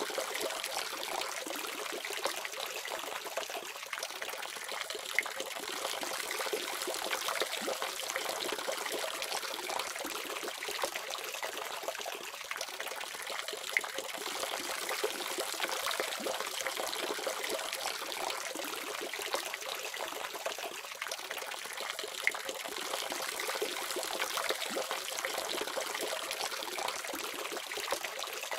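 Water running steadily from a tap, an even splashing hiss with small drips and splashes scattered through it.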